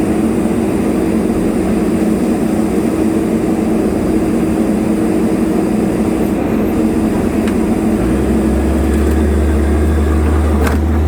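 Heavy diesel engine running steadily, with a deeper low drone joining about eight seconds in.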